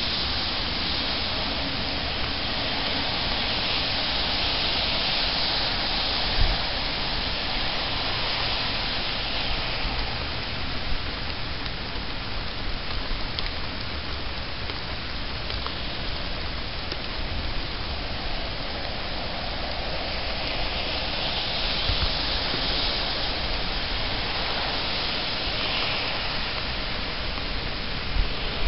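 Steady rain falling, swelling a little louder twice.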